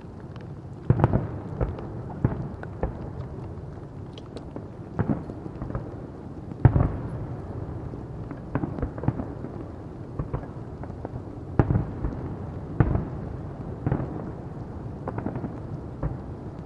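Fireworks display: a string of sharp bangs at uneven intervals, each trailing off in a short echo, over a steady low rumble.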